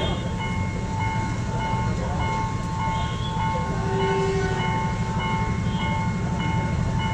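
Train passing a level crossing, with a steady low rumble, while a high, pulsing warning tone repeats at an even rhythm of roughly one and a half beats a second.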